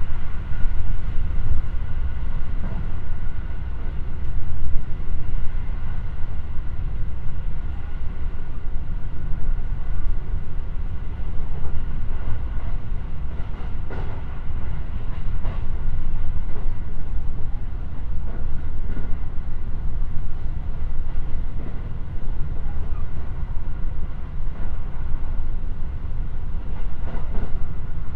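Cabin running noise of a JR West 223 series electric train travelling at speed: a steady low rumble of wheels on rail, with faint steady high tones above it. A couple of light clicks come about halfway through and near the end.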